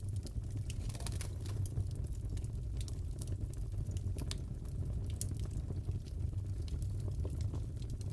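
Crackling fireplace: a steady low rumble of burning with irregular sharp pops and crackles scattered throughout.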